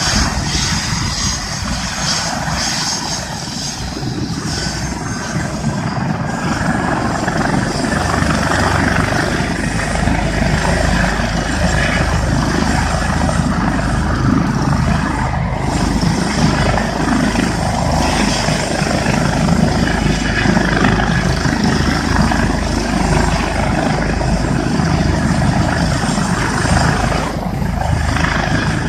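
Air ambulance helicopter running on the ground with its turbine engines and rotor turning: a steady loud rotor and engine noise with a faint high whine, growing a little louder a few seconds in.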